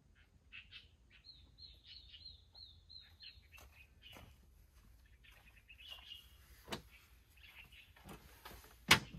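Small birds chirping, one giving a quick run of about eight high chirps a second or so in. Light knocks follow, then a sharp loud knock near the end as camping gear is set down.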